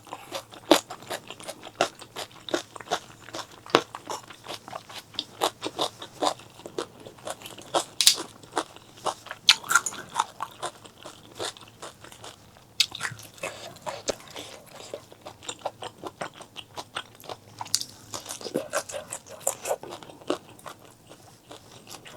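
Close-miked eating sounds: a person biting and chewing food, with many sharp, irregular crunching clicks.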